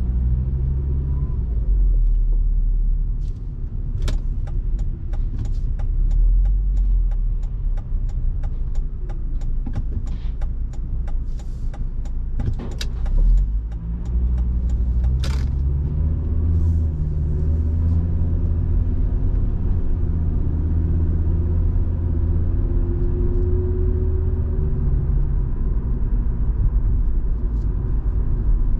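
Volvo V70 2.5T's turbocharged five-cylinder engine and road rumble heard from inside the cabin while driving, the engine note stepping up and down. From a few seconds in until about halfway there is a steady ticking, about three ticks a second.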